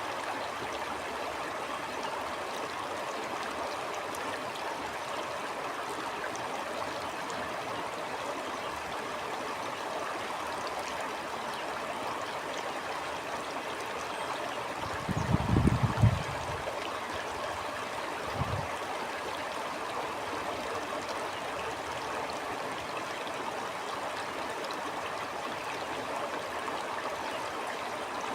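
Steady rushing of a flowing stream. About halfway through comes a brief low rumble, the loudest moment, and a smaller one a few seconds later.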